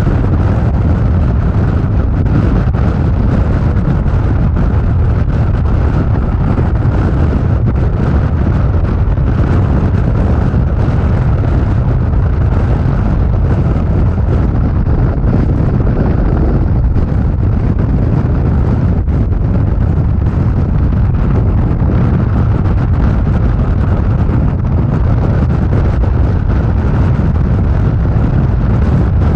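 Harley-Davidson motorcycle riding at freeway speed: a steady, loud low rumble of engine, road and wind noise buffeting the microphone.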